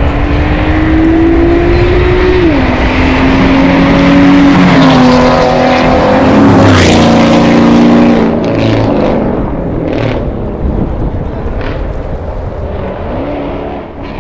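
A car accelerating hard up through its gears: the engine note climbs, drops sharply at each shift about every two to three seconds, and rises again. It is loudest in the middle, then fades as the car pulls away.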